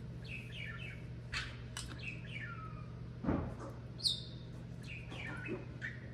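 Bird chirping repeatedly in short rising and falling calls over a steady low hum, with a few light clinks and a thump a little past three seconds.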